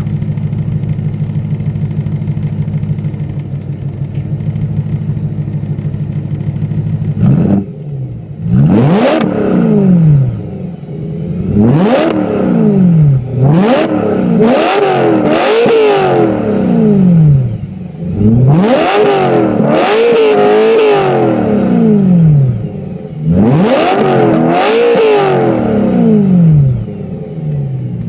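BMW E93 M3's 4.0-litre V8 through a Meisterschaft GT2 aftermarket exhaust, idling steadily, then revved from about seven seconds in: five bursts of quick blips, the pitch climbing and falling back each time, before it settles to idle near the end.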